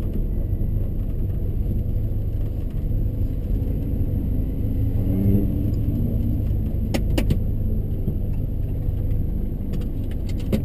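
Seat Ibiza FR's 1.8-litre turbocharged four-cylinder running at low revs as the car rolls slowly, a steady low rumble heard from inside the cabin. A few sharp clicks sound about seven seconds in.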